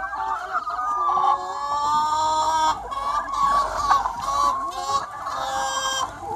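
A large free-range chicken flock, many hens clucking and calling over one another, some in long drawn-out calls.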